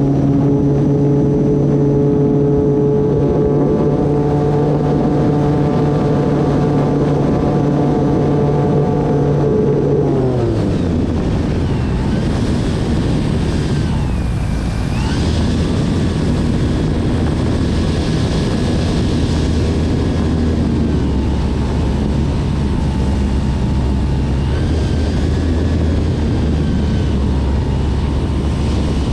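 Brushless electric motor and propeller of an E-flite Turbo Timber Evolution RC plane, running with a steady whine that falls in pitch about ten seconds in as the throttle is eased back. It then runs on at a lower drone under a rush of wind noise.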